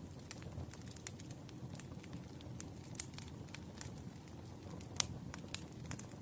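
Wood fire burning, with a steady low rumble and irregular sharp crackles and pops from the burning logs; the loudest pop comes about five seconds in.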